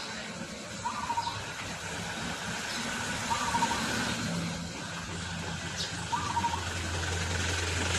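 A car engine idling: a low steady hum that sets in about halfway through and grows stronger near the end. Short chirps recur every couple of seconds over it.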